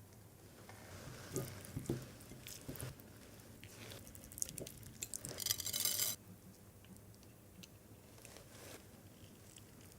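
Crisp crunching and scattered light clicks of food being handled, with a louder, denser crunching for about a second around the middle.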